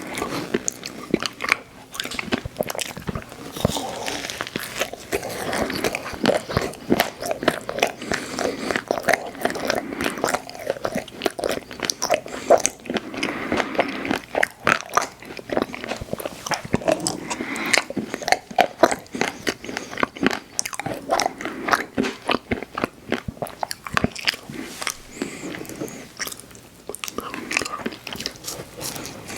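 Close-miked eating: big bites and chewing of ice cream desserts, with a continuous run of wet smacks and crunching clicks.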